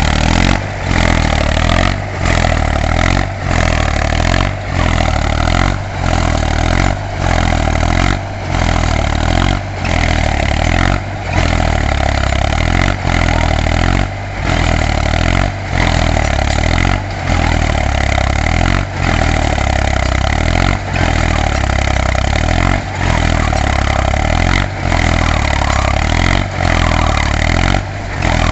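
Mahindra tractor's diesel engine running hard under load, with brief regular dips in the sound about every second and a bit.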